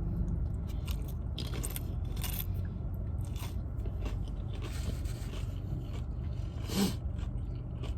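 A person chewing and crunching food close to the microphone, with scattered sharp crackles, over a steady low hum. A brief hum of the voice comes about seven seconds in.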